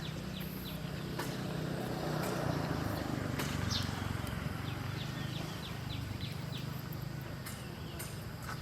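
Small birds giving short, high, down-slurred chirps again and again, over a steady low hum, with a few sharp clicks.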